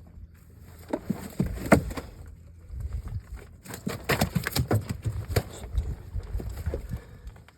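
Irregular knocks, slaps and thumps on a fishing boat as gill nets and caught fish are handled, with the sharpest knock a couple of seconds in.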